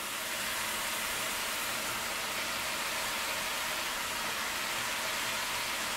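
Steady sizzle of bell peppers, green onions and garlic sautéing in a hot pan while shredded collard greens are added by hand.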